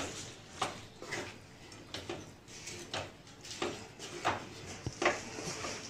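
Spatula stirring a vegetable mixture in a non-stick frying pan. It makes soft, irregular scrapes and taps against the pan, every half second to a second.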